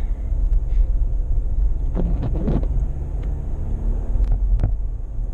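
Steady low rumble of a car being driven, heard from inside the cabin. A brief faint sound comes about two seconds in and a few light clicks near the end.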